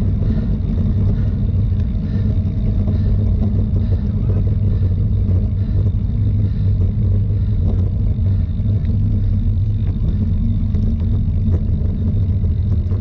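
Steady wind rumble buffeting the microphone of a camera carried on a moving bicycle, a loud unbroken low roar.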